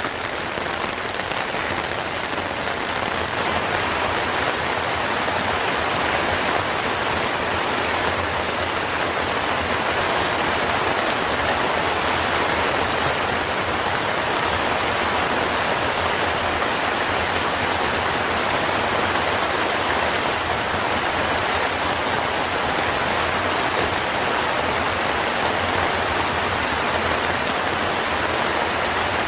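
Steady rain falling, a dense even hiss that grows a little louder a few seconds in.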